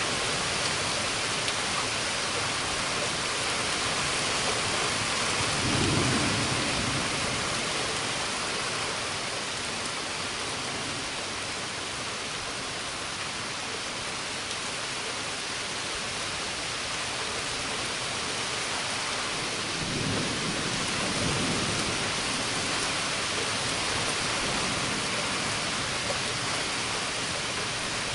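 Heavy, steady rain falling during a thunderstorm, with low thunder rumbling twice, about six seconds in and again around twenty seconds in.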